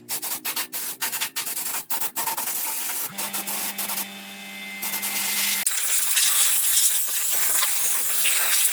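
Sanding: quick, rhythmic rubbing strokes, then a steady motor hum runs for about two and a half seconds, then a louder continuous rasping.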